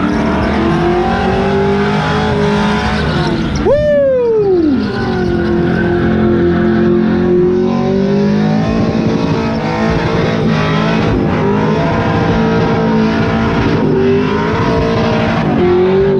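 Truck engine held at high revs during a burnout and drift, over the hiss of spinning tyres. About four seconds in, it revs sharply and the pitch falls away, then it settles back to a steady high rev.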